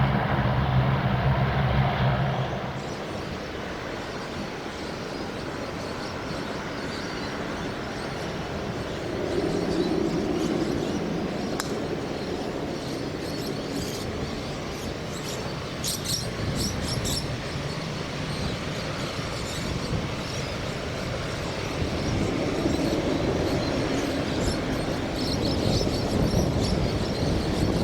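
Airbus A350-900's Rolls-Royce Trent XWB jet engines at takeoff thrust, a steady low drone that drops off after about two seconds into a distant rumble as the airliner climbs away, the rumble swelling a little again later.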